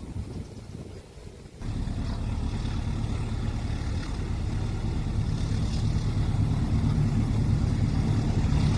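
A vehicle engine's steady low drone sets in abruptly about one and a half seconds in and slowly grows louder.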